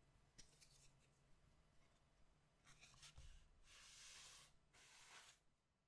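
Faint handling of collectible cards and their paper and plastic packaging: a few light clicks and rubs, then two longer rustling swishes of about a second each in the second half.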